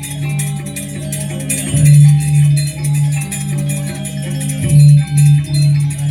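Balinese gamelan playing: metal-keyed instruments in quick runs of short notes over a loud low held tone that swells and fades, with a dense clashing hiss of small cymbals on top.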